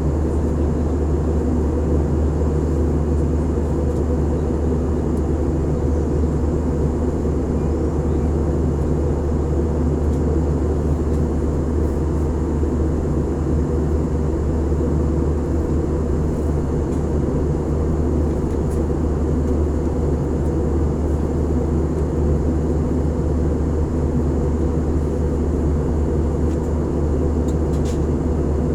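Steady drone inside a passenger airliner's cabin: engine and airflow noise, loud and low-pitched, unchanging throughout.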